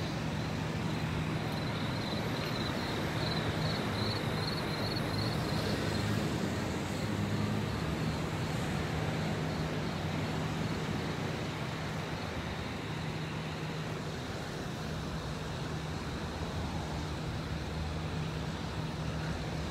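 Steady road traffic noise with a constant low engine hum. A short run of repeated high chirps comes in a couple of seconds in and stops a few seconds later.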